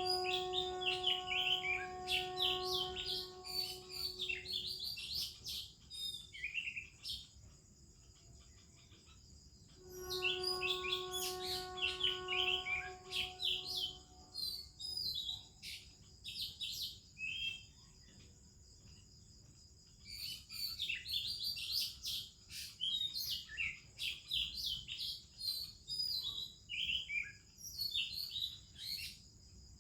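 Oriental magpie-robin singing in three bouts of rapid, varied whistled phrases, with short gaps between them. A steady high insect drone runs underneath, and a steady low hum sounds under the first two bouts.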